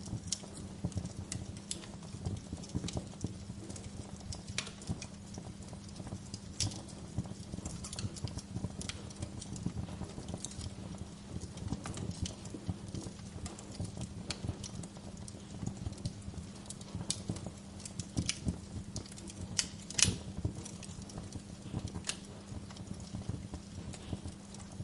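Fire crackling in a fireplace: irregular sharp pops and snaps over a steady low rumble, with one louder pop about twenty seconds in.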